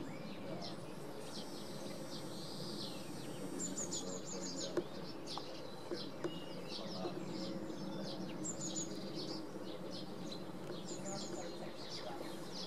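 Small birds chirping, with quick high trills repeating every few seconds, over a steady low hum.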